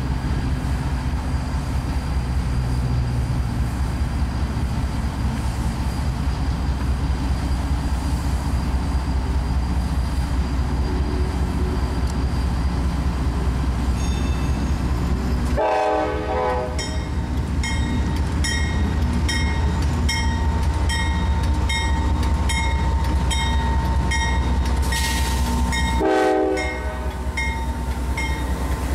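CSX freight train rumbling past at a grade crossing. About halfway through, the crossing bell starts ringing steadily at about one and a half strikes a second, and two short tonal blasts come about ten seconds apart.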